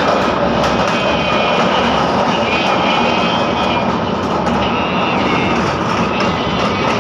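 Kalka–Shimla narrow-gauge train running: a loud, steady rumble and rattle of the carriages and wheels on the track, with thin high tones coming and going.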